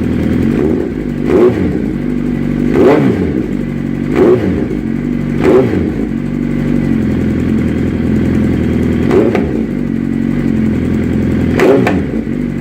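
Suzuki Hayabusa's inline-four engine idling through an aftermarket full exhaust, blipped about six times: each short throttle blip rises sharply in pitch and drops back to idle.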